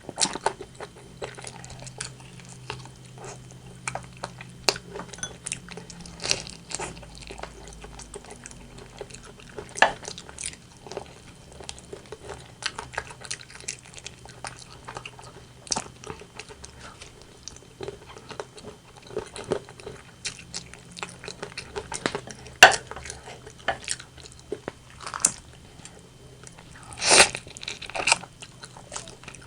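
Close-miked chewing and biting of rotisserie chicken: irregular wet smacks and crunches, the loudest crunch a few seconds before the end.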